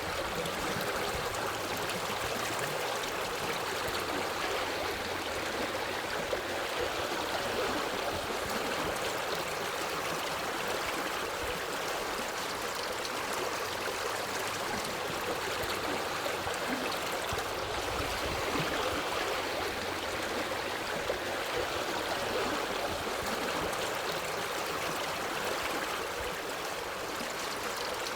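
A forest stream flowing over rocks, a steady rushing and gurgling of water.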